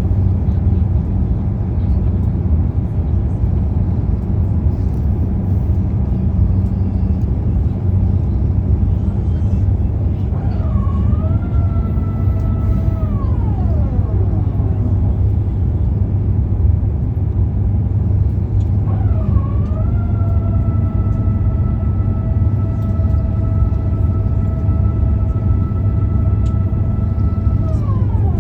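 Steady low rumble of a vehicle in motion, with a whine that comes in twice, holds steady and then falls away in pitch.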